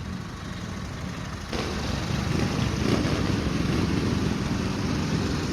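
An engine runs with a steady low rumble, and it grows louder from about a second and a half in.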